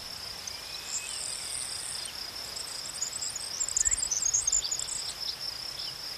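Common grackle calling: a short high squeak about a second in, then a jumble of short, very high squeaky notes over the next few seconds. A steady high cricket-like trill runs underneath.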